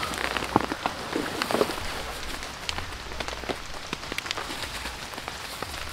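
Rain pattering on a nylon tarp shelter, with many scattered sharp drips, and some rustling as a backpack is handled.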